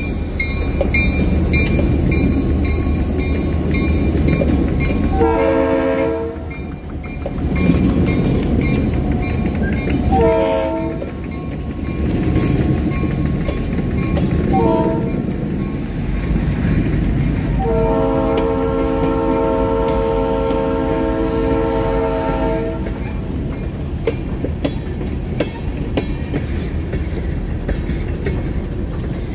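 Diesel freight train rolling past: rumble and wheel clatter as tank cars go by, with a couple of sharp clunks. A multi-note locomotive horn sounds three short blasts, the third the shortest, then one long blast of about five seconds. The spacing matches the grade-crossing signal.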